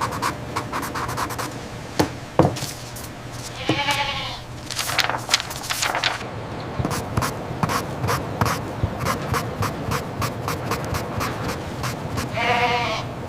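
Goats bleating, two short calls: one about four seconds in and one near the end. Frequent knocks and clicks sound between them.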